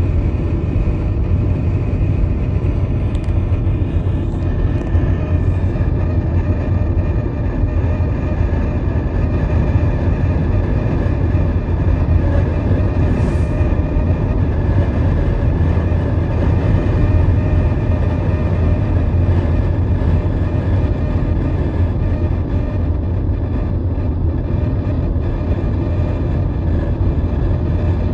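Ford Mustang Mach-E Select on the move: a steady low road rumble with a faint, steady high-pitched squeal of a few tones running over it. A single brief click about halfway through.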